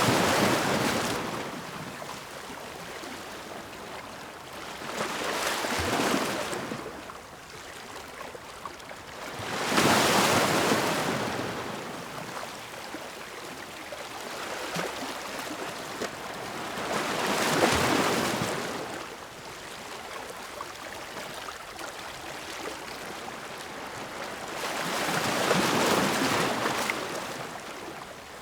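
Ocean waves breaking and washing up the shore: a rushing surf noise that swells and fades about five times, every five to eight seconds, with a quieter wash in between.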